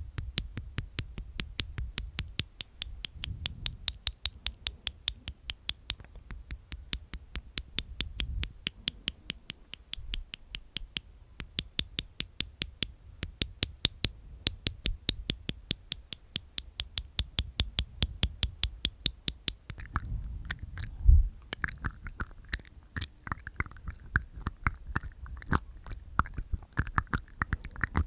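ASMR mouth sounds made with the tongue and teeth inside the mouth: a fast, even run of clicks. About twenty seconds in it changes to a looser, brighter clicking, with one louder knock.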